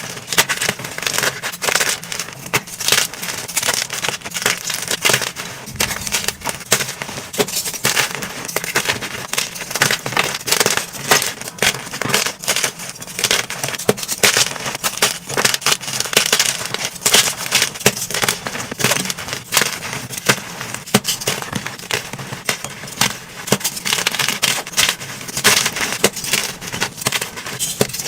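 Dyed gym chalk blocks being crushed and crumbled by hand, a continuous run of dense crunching and crackling.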